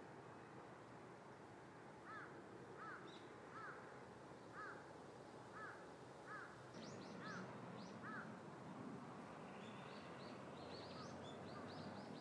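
Faint bird calls: a short, clear, arched note repeated about once a second for several seconds, then quick high chirps from a second bird in the later part, over a low steady background hiss.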